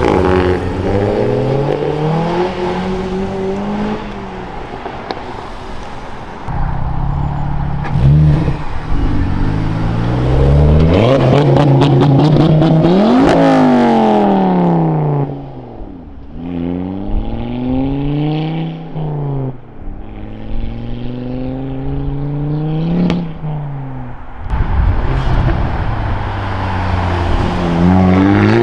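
Modified cars accelerating hard away one after another, their engines revving up and dropping back in pitch again and again through gear changes as they pass by.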